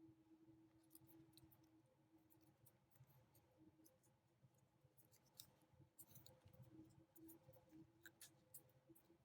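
Near silence, with faint scattered crinkles and taps of origami paper being folded and creased by hand, more of them in the second half.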